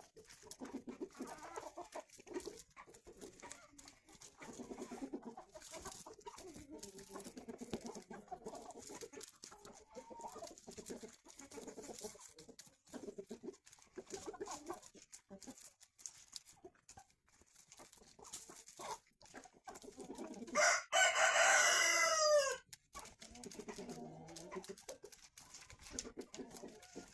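A flock of chickens clucking softly while feeding. Late on, a rooster crows once, loudly, for about two seconds, the loudest sound here.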